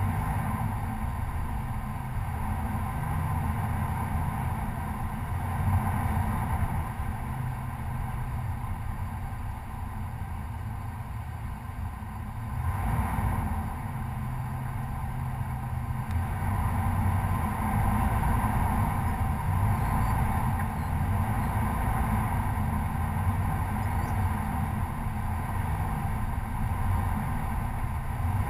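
Stock Chevy Colorado pickup driving on a dirt trail, its engine running in a steady low rumble that swells a little now and then.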